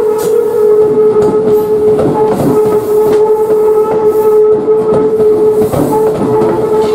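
Tobu 10030 series electric train departing and rolling past, its wheels clicking irregularly over the rail joints and points, with a steady high tone throughout.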